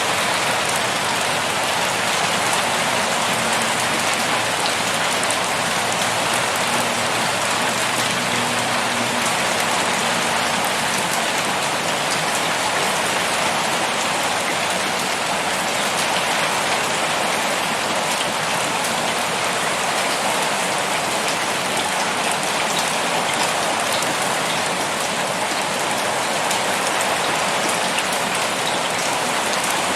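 Heavy pouring rain falling steadily on a surface, an even hiss with fine drop patter.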